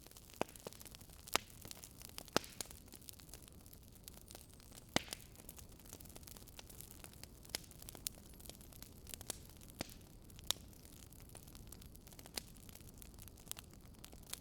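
Wood logs burning in a fireplace, crackling with irregular sharp pops over a soft, steady hiss. A few pops are louder than the rest, the loudest about a second and a half in, near two and a half seconds, and around five seconds.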